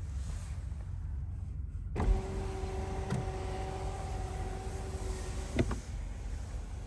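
Power window motor of a 2023 BMW 760i running for about three and a half seconds, a steady whine that starts with a thud about two seconds in and stops with a click, over a low steady rumble.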